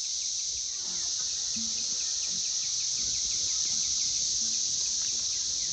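Loud, steady insect chorus in summer woods: a continuous high buzzing, with a quick, evenly repeated chirping running over it.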